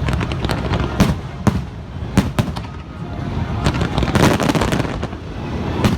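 Fireworks bursting overhead: a series of sharp bangs and crackles at irregular intervals, with a quick cluster about four seconds in, over a continuous low rumble.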